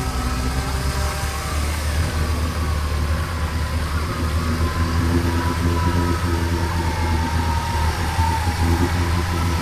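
Four-wheel-drive's engine running steadily at low revs, with a fainter whine that rises and falls in pitch.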